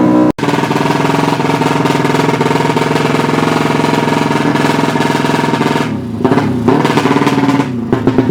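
Tuned open-class 200cc underbone (bebek) drag motorcycle engine with an open exhaust, held at high revs in a steady, loud, rapidly pulsing note. About six seconds in, the revs drop and climb again.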